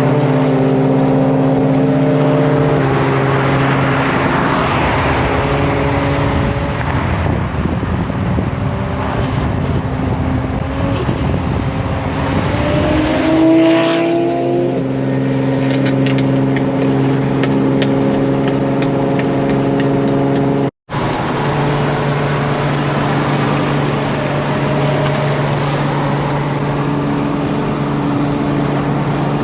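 Turbocharged Nissan 350Z's 3.5-litre V6 running at a steady cruise, a constant exhaust drone. About 13 seconds in it revs up briefly.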